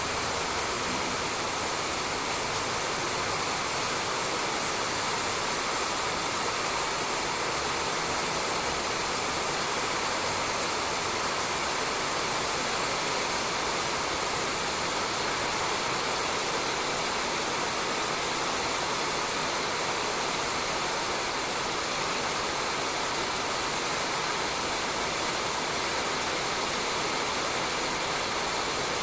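Steady rain falling on a roof: an even, unbroken hiss that holds the same level throughout.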